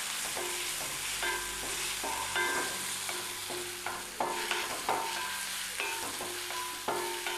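Sliced onions, shallots and ginger-garlic paste sizzling in hot oil in a metal wok, being sautéed with a wooden spatula: a steady frying hiss with repeated scrapes of the spatula against the pan, about two a second.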